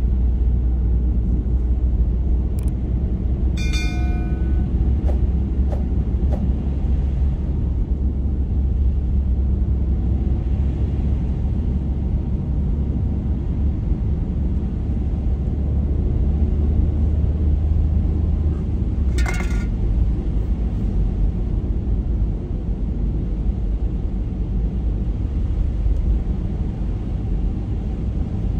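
Steady low rumble of a car driving on a snowy road: engine and tyre noise with a deep drone. A short pitched beep sounds about four seconds in, and a brief sharp click or squeak comes a little after nineteen seconds.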